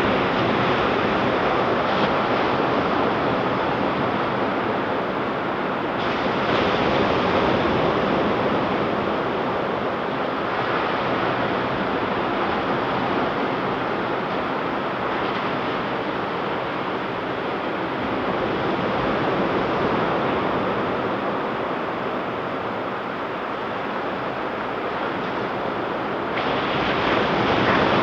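Ocean surf breaking on a beach, a continuous wash of waves that swells and eases every several seconds, with some wind on the microphone.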